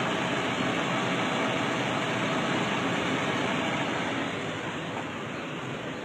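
Ford 300 cubic-inch straight-six engine idling, a steady, even running sound that the owner calls running perfect. It gets a little quieter about four seconds in.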